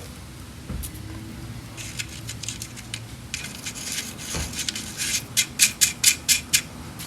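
Metal hand tools clicking and scraping on an engine under disassembly, ending in a quick run of about six sharp clicks in under two seconds.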